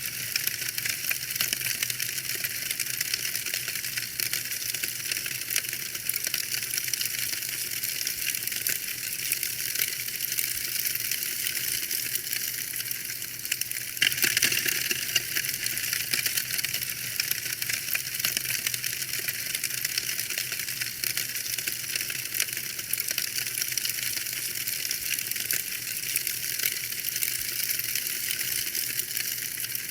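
Fire in a fireplace crackling steadily, a dense run of small snaps and pops, with one louder pop about 14 seconds in.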